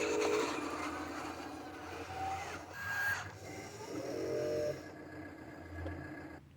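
Dump truck running, with a steady low engine hum and a few short squeaks and whines from the machinery; it gets quieter about two-thirds of the way through.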